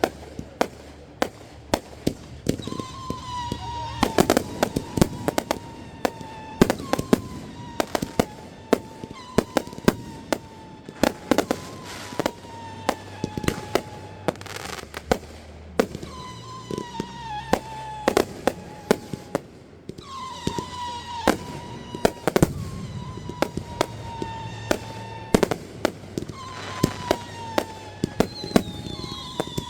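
Fireworks going off in a dense string of sharp bangs and crackles, over and over. Through it run repeated whistles, each sliding slightly downward in pitch over a second or two.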